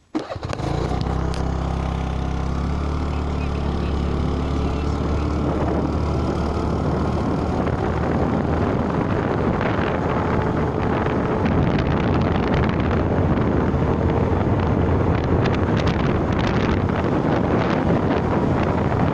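Motor vehicle driving on the road, its engine hum under steady road and wind noise. Wind buffets the microphone more in the second half.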